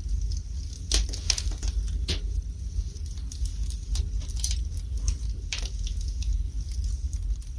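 Wood fire in a fireplace crackling, with irregular sharp pops and snaps over a steady low rumble of the flames. The pops cluster in the first two seconds.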